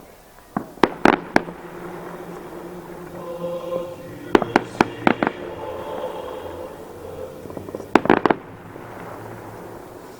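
Fireworks display: aerial shells bursting in three clusters of sharp bangs, about a second in, around four to five seconds in, and near eight seconds. Faint background music plays underneath.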